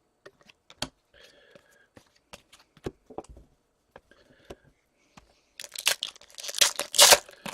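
Scattered light clicks and taps of trading cards being handled, then, about five and a half seconds in, a trading-card pack wrapper being torn open and crinkled.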